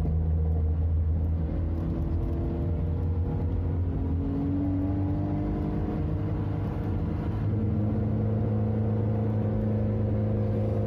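Car engine running while driving, heard from inside the cabin. Its note rises a little around the middle and shifts again about three-quarters of the way through.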